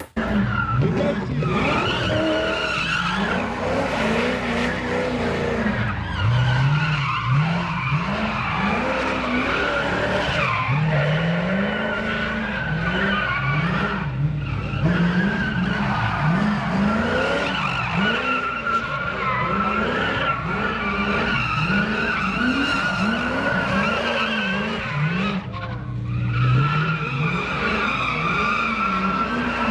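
Car drifting: the engine revs up and falls back again and again, about once a second, while the tyres squeal steadily through long slides.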